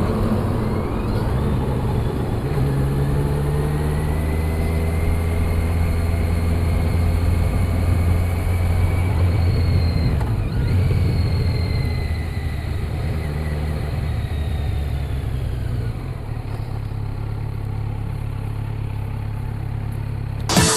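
Motorcycle engine running steadily at low revs, dropping slightly in level near the end.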